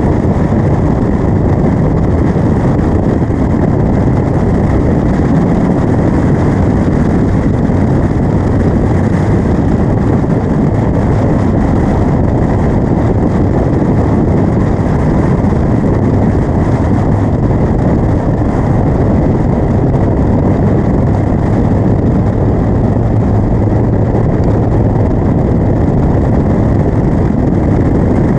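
Caterham Seven 360's four-cylinder engine running hard at track speed, heard onboard from the open cockpit; loud and steady throughout.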